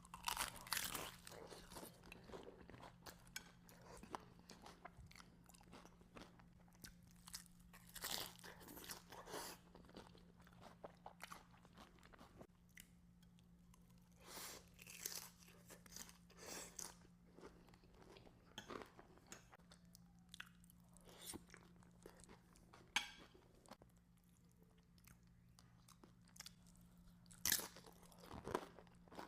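Close-up eating of tacos: irregular crunchy bites and chewing, coming in clusters with short pauses between them. A faint steady low hum runs underneath.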